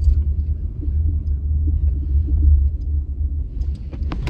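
Low rumble inside a car's cabin as it moves slowly while being parked, with a few sharp clicks near the end.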